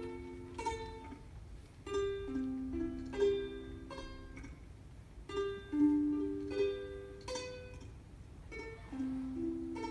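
Solo ukulele playing an instrumental introduction: ringing notes picked out one after another into chords, in phrases that start about every three and a half seconds.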